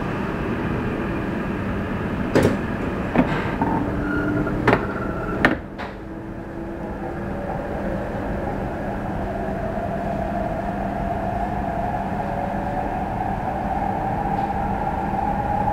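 Train running noise heard inside the car. A handful of sharp clacks from the wheels on the track come in the first six seconds, then a thin motor whine slowly rises in pitch as the train picks up speed.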